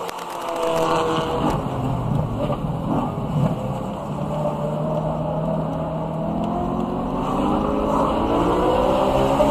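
BMW E92 M3's 4.0-litre V8 engine running hard on track. The note eases off briefly at the start, then pulls, rising steadily in pitch through the second half as the car accelerates.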